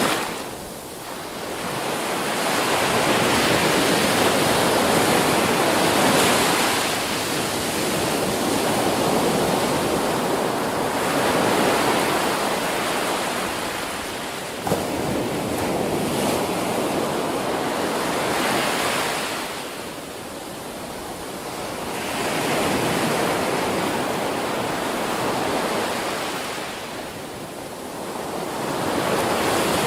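Ocean surf breaking and washing up a beach, swelling and fading in slow surges several seconds apart.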